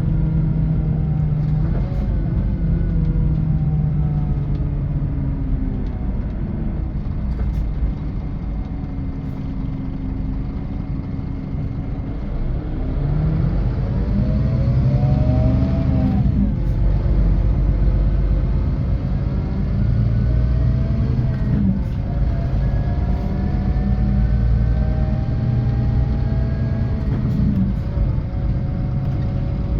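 Scania K450 coach's diesel engine and road rumble heard from on board. The engine note sinks as the coach slows, then climbs as it accelerates, dropping sharply at two gear changes about halfway and two-thirds through before rising again.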